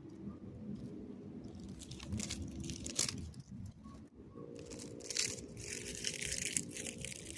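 Crunching and crackling in two bouts, over a steady low hum.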